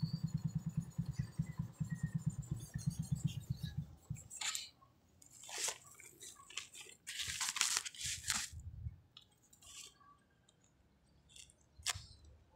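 A motorcycle engine idles with a fast, even low pulse and cuts off about four seconds in. After that come intermittent rustling and scraping handling noise as a phone is taken out and raised to the ear, with a click near the end.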